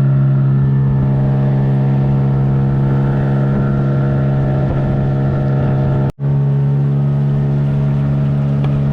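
Motorboat engine running at a steady speed, an even drone that holds one pitch, with the sound cutting out for a split second about six seconds in.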